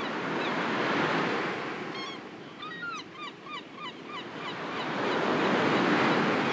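Sea waves washing onto a shore, swelling to a peak about a second in and again near the end. Birds call in a quick run of short chirps in the middle.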